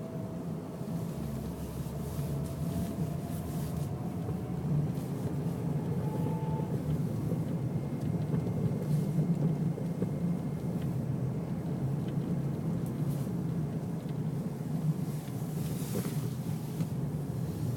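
Mazda Millenia's V6 engine running steadily, with a few faint short ticks; the car is being run to show a knock that the owner says is still there.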